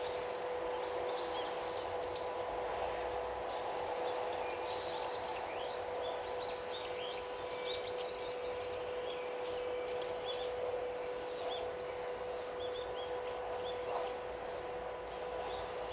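Many small birds chirping and calling in quick, overlapping short notes, over steady outdoor background noise and a constant faint hum.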